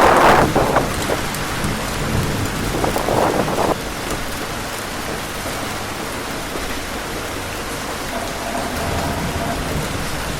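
Heavy rain falling in a steady hiss, with louder rushing surges at the start and again about three seconds in. A faint steady hum joins near the end.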